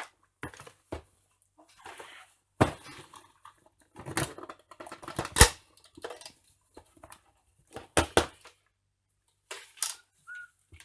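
Stiff, aged plastic packaging being cut and pried open and the toy blaster pulled free: irregular crackles, snaps and knocks, the loudest a sharp snap about five seconds in and two close snaps around eight seconds.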